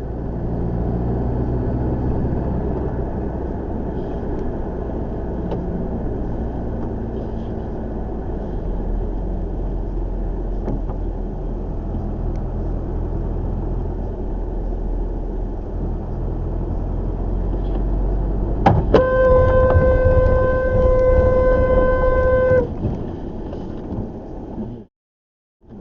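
Steady car engine and road noise heard from a dashcam. About three quarters of the way through there is a sharp knock, then a car horn sounds, held steady for about three and a half seconds.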